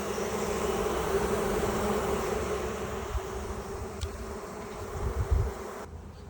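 Honeybee colony buzzing from an opened hive: a steady, dense hum. A few low thumps come near the end, and then the buzzing drops away suddenly.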